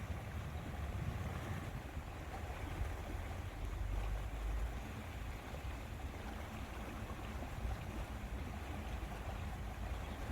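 Wind blowing over the microphone: a steady rushing with an uneven low rumble of buffeting.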